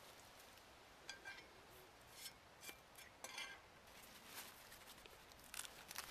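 Faint, scattered small clicks and short scrapes, like small hard objects being handled, over a quiet background hiss.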